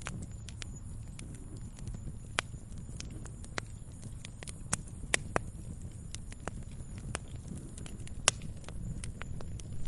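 Wood fire crackling in a fireplace: irregular sharp pops and snaps over a steady low rumble of burning, with the loudest pops about two and a half, five and eight seconds in.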